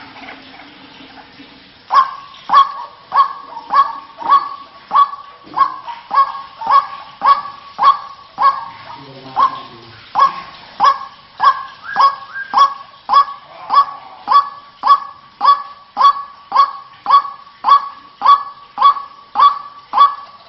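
White-breasted waterhen (ruak-ruak) calling, a long, evenly repeated series of harsh notes at about two a second, starting about two seconds in after a short lull.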